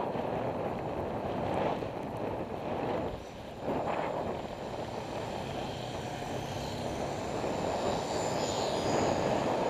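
Steady road-traffic noise heard from a bicycle on the move, with a brief lull about three seconds in.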